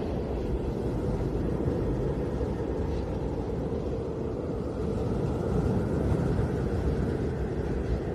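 Snowstorm wind blowing steadily as a low, rumbling rush, swelling slightly about six seconds in.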